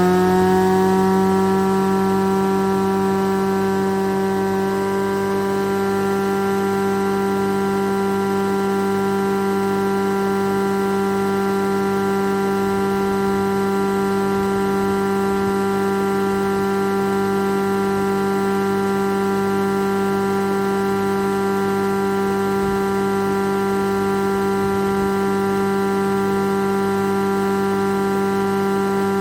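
VEB AD6 planer-thicknesser with its 64 cm cutterhead and 5 kW motor, running free with a steady whine. At the start its pitch is still rising as the cutterhead picks up speed once the board has left the knives; it settles about a second in and then holds steady.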